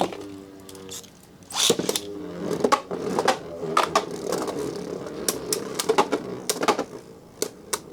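Beyblade spinning tops whirring in a plastic stadium, with sharp clicks as they clash against each other and the stadium wall again and again.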